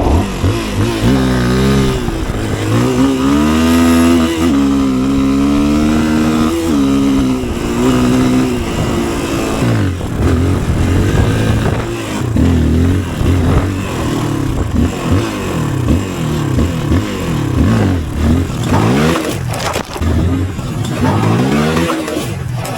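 Yuki Victor 250 enduro motorcycle's engine under way, its pitch climbing in steps for about the first ten seconds, then rising and falling over and over as the throttle is opened and closed.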